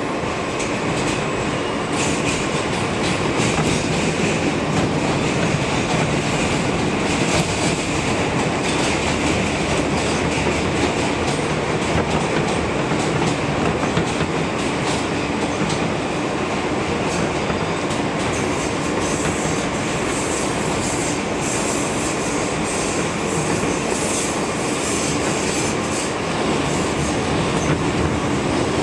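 MTA R160B subway car, Alstom-built, running at speed, heard from inside the cab: steady rumble of the train with wheels clicking over rail joints. A high wheel squeal comes in at times, most plainly in the second half.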